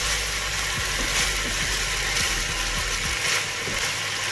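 Sliced beef sizzling as it stir-fries in a nonstick pan: a steady frying hiss with small clicks as a wooden spatula turns the meat.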